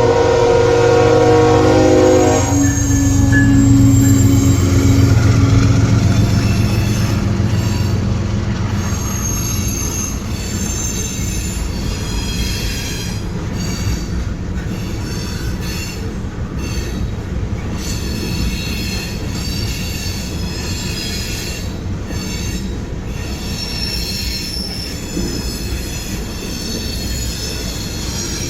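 A train passing close by: the locomotive horn sounds a chord for about two and a half seconds at the start, then the locomotives rumble past, and from about eight seconds in the cars' wheels squeal in high, wavering tones over the steady rolling rumble.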